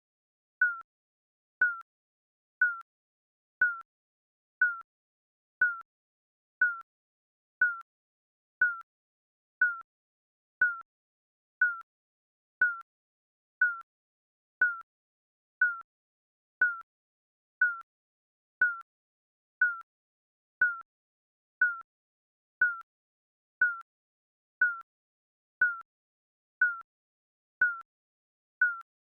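Digital countdown timer beeping once a second, each beep a short, slightly falling electronic tone with a faint click at its start.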